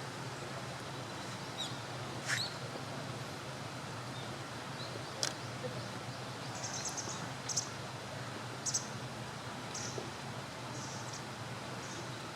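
Outdoor ambience: a steady hiss and low hum with a run of short, high-pitched bird chirps in the second half and a few sharp clicks.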